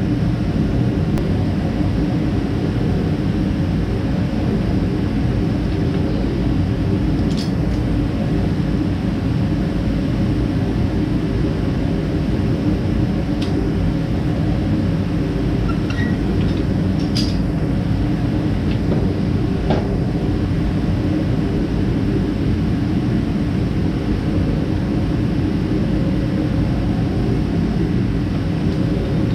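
Electric fan running with a steady, loud drone. A few faint metal clicks from tools on the scooter's frame stand out now and then.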